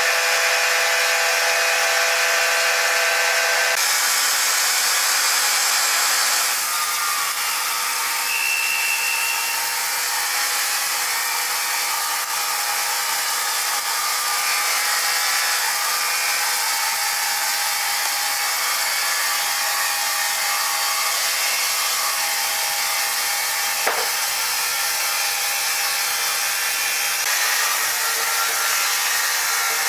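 Sawmill saw cutting through a log: a steady, high-pitched hiss and whine of the blade in wood, with one brief sharp knock about three-quarters of the way through.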